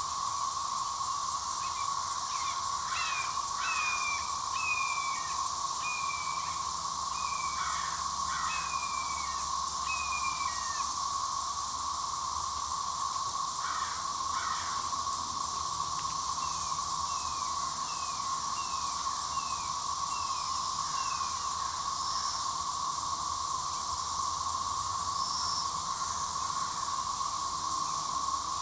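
A cicada chorus droning steadily, with a high hiss above the main drone. Over it a bird sings runs of short down-slurred whistled notes, about two a second, in two bouts.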